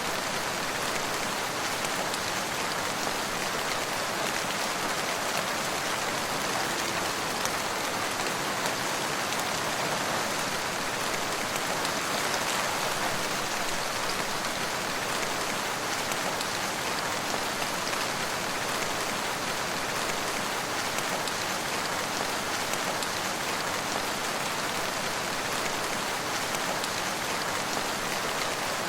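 Steady rain falling on surfaces, a constant even hiss of many drops.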